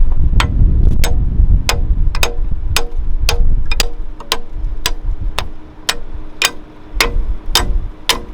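Low rumble of the Valtra tractor at work, with sharp, regular ticking over it at a little under two clicks a second. The rumble eases in the second half while the ticking keeps on.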